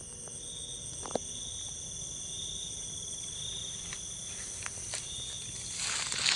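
Steady high-pitched insect chorus with several continuous trilling tones, a few faint clicks, and a brief rustle near the end.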